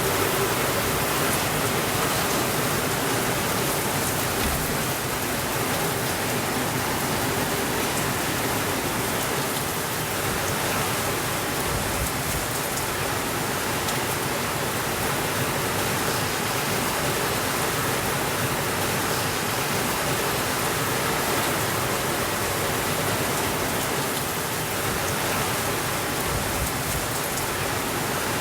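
Steady rainfall: an even, unbroken hiss of rain, without thunder.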